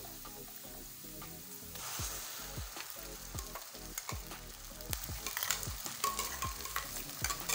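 Chopped onions frying in oil in a stainless-steel kadai, a steady soft sizzle. About two seconds in, wet ground masala paste is scraped in from a steel mixer jar and the sizzle turns louder, with many sharp crackles and clicks.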